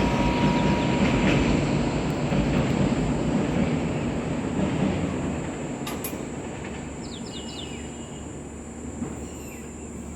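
A train running on the rails, its rumble and clatter fading steadily as it moves away. A few short high chirps sound about seven seconds in.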